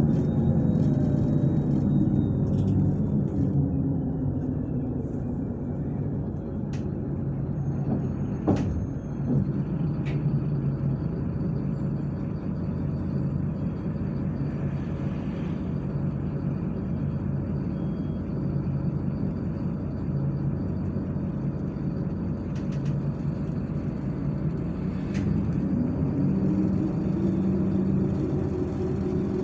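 Inside a MAZ-103 city bus under way: diesel engine and road noise. The engine note falls over the first few seconds as the bus slows, then holds steady, and rises again near the end as it pulls away. A single sharp click is heard about eight seconds in.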